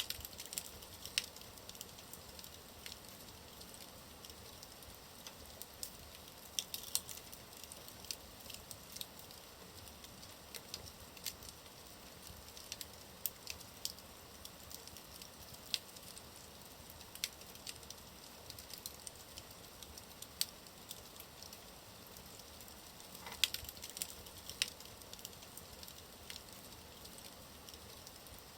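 Wood fire burning in a fireplace, with a soft steady hiss and irregular sharp crackles and pops, a brief flurry of louder pops near the end.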